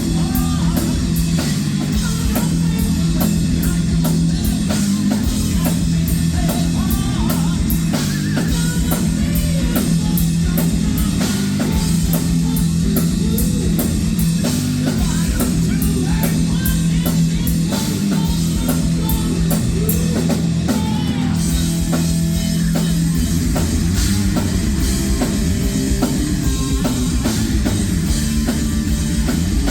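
Heavy metal band playing live: distorted electric guitar and bass over a drum kit with steady, fast drum and cymbal hits, loud throughout.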